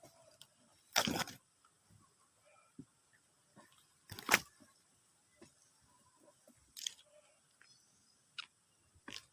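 A handful of short crunching, crackling rustles of leaves and twigs being pushed and brushed in a tamarind tree, the loudest about four seconds in.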